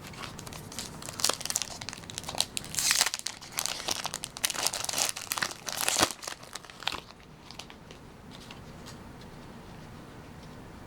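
Foil Pokémon booster pack wrapper crinkling and tearing open in a dense run of sharp crackles, stopping about seven seconds in, leaving only faint room hiss.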